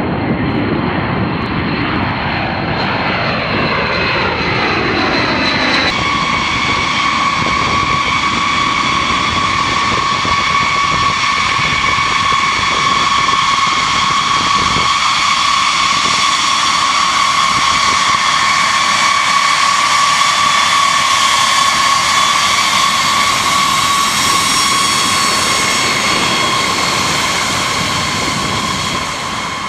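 B-52 bomber's jet engines running: a loud rush with several steady high whining tones. In the first few seconds the tones sweep downward; they change abruptly about six seconds in and then hold steady.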